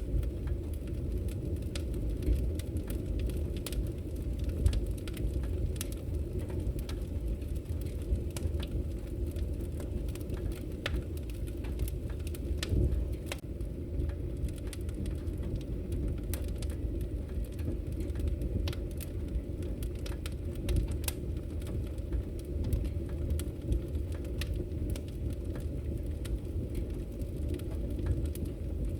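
Wood fire crackling in a fireplace: a steady low rumble of burning with scattered, irregular sharp pops and snaps.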